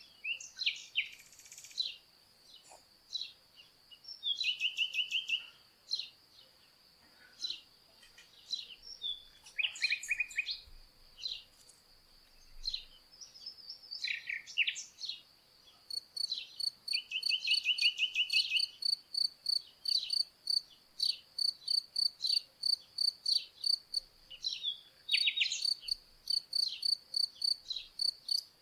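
Songbirds chirping and trilling in short phrases over a steady cricket trill. From about halfway through, a cricket chirps in an even, rapid rhythm alongside the birds.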